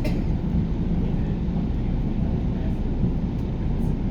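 JR electric rapid train running at speed, a steady low rumble of wheels on rail heard from inside the carriage, with a few faint ticks.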